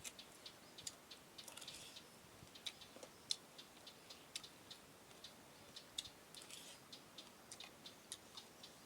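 Faint, irregular mouth clicks and smacks of someone chewing papaya salad and sticky rice close to the microphone, several a second, with a couple of brief soft rustles.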